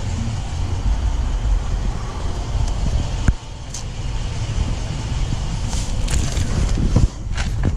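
A steady low rumble with a few sharp clicks, one about three seconds in and another near the end.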